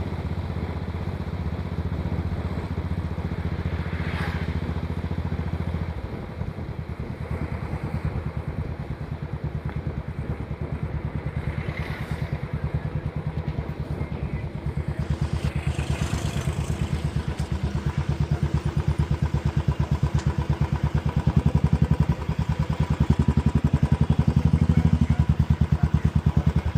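Royal Enfield 500cc single-cylinder engine thumping steadily while riding, heard from the rider's seat. The engine eases off about six seconds in, then pulls harder and gets louder in the second half before easing again near the end.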